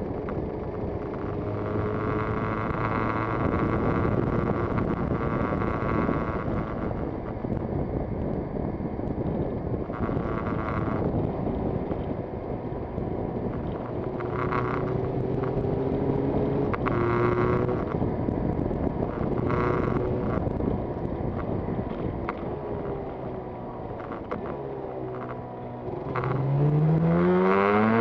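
Yamaha TZR250 two-stroke twin engine running under way, mixed with wind rush; near the end the revs climb quickly as it accelerates.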